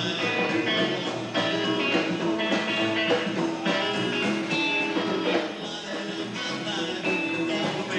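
Rock music played by a band, continuous, with a steady beat.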